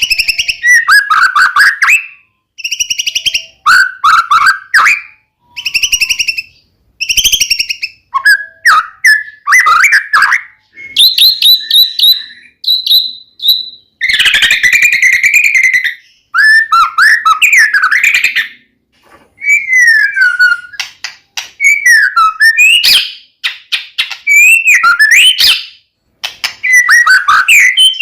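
White-rumped shama singing a loud, varied song of whistled glides, fast chattering trills and harsh rattling phrases, with short pauses between phrases.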